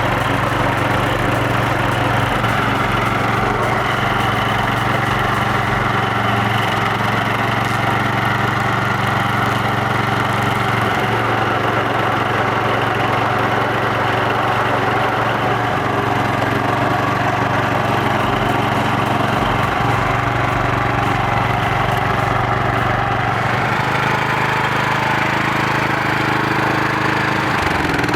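Small gasoline engine of a stump grinder, a 13.5 horsepower Briggs & Stratton, running steadily at a constant speed.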